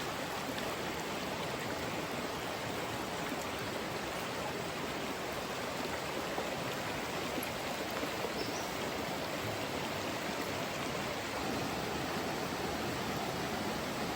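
Rushing water of the Nantahala River, a steady, even flow noise.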